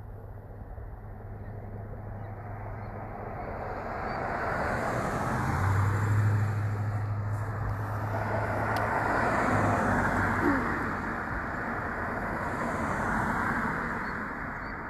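Road traffic: vehicles passing one after another, each swelling and fading, over a steady low hum.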